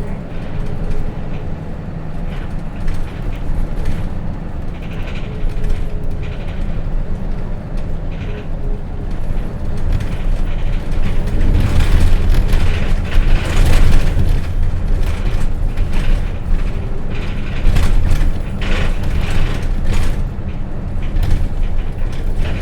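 Interior running sound of a Hino RJ bus under way, its J08C straight-six diesel engine and road noise heard from inside the cabin, growing louder about halfway through. Many short rattles and clicks from the bus body and fittings over the engine.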